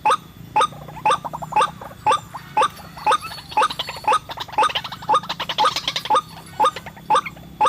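White-breasted waterhen calls, played as a lure: short, loud notes repeating about twice a second, with quicker, fainter notes between them, over a low steady hum.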